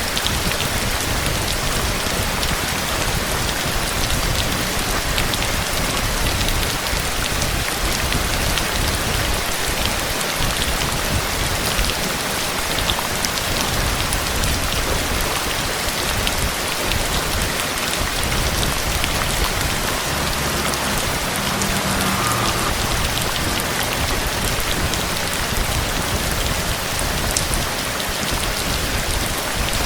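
Heavy storm rain falling steadily: a dense, even hiss speckled with many fine drop ticks.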